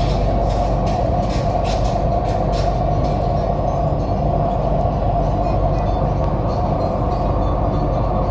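MTR Island Line Q-Train running between stations: a loud, steady rumble and hum of wheels on rail and traction equipment, with a run of sharp clicks in the first three seconds.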